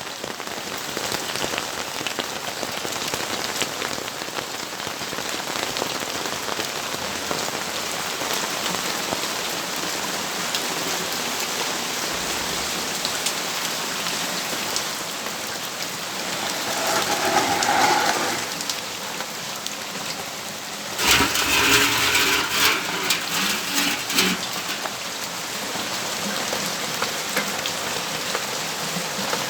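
Steady rainfall, an even hiss of drops hitting surfaces. It swells briefly about seventeen seconds in, and a sudden louder sound cuts in about twenty-one seconds in and lasts a few seconds.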